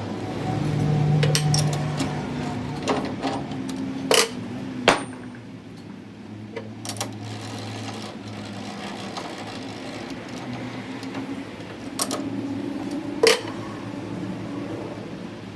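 A workshop machine running with a steady low hum, with sharp metal knocks now and then, the loudest two about a second apart and another near the end.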